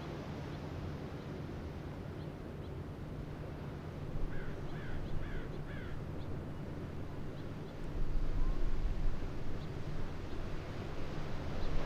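Harbor ambience: a bird gives four quick, harsh calls about four seconds in, over a steady low hum, and a deeper rumble swells about eight seconds in.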